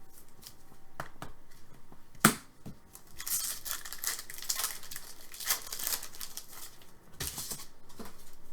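A foil hockey card pack wrapper being torn open and crinkled, with a sharp click a little over two seconds in and a shorter crinkle near the end.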